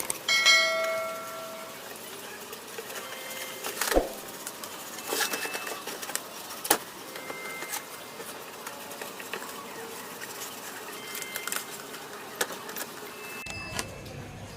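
Birds calling, a pitched call first and then short high chirps now and then, with a few sharp knocks or taps.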